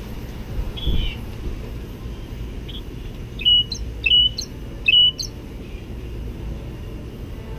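Mockingbird singing: a short falling phrase about a second in, then one sharp note given three times in quick succession around the middle, over a low steady rumble.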